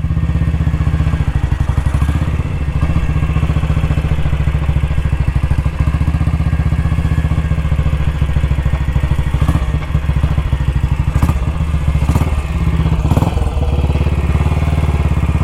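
BSA Gold Star DB34's 500 cc single-cylinder engine idling steadily, with a few sharp clicks in the second half.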